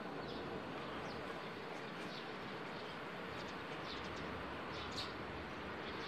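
Scattered short, high bird chirps, faint and spaced irregularly, the strongest about five seconds in, over a steady outdoor hiss.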